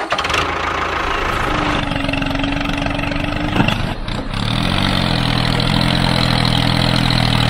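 A motor running steadily, its hum shifting in pitch about four and a half seconds in.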